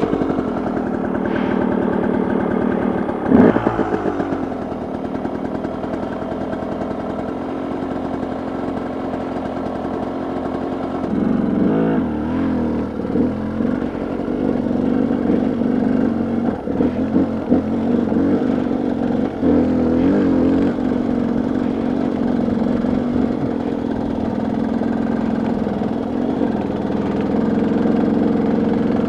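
Pickup truck engine running as the truck camper sets off, with a sharp loud jolt about three and a half seconds in. From about twelve seconds on the engine note changes and there are irregular knocks and rattles as it drives a rough, rocky road.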